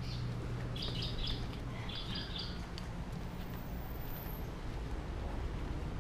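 A small bird chirping in two short bursts of rapid high notes, over a steady low hum that fades about halfway through.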